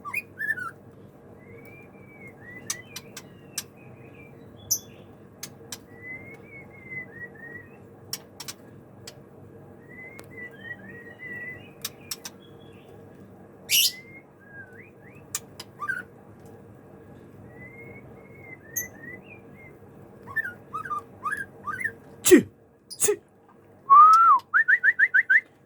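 White-rumped shama singing: short whistled phrases that slide up and down, broken by sharp clicks, with a quick run of rising notes near the end. A steady low hum sits underneath.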